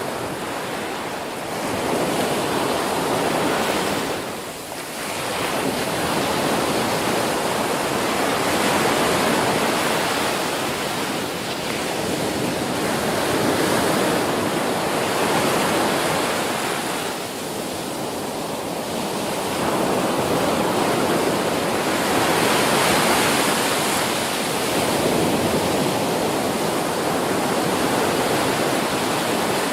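Ocean surf: waves breaking and washing in, a continuous rushing that swells and eases every few seconds, with a short lull about four seconds in.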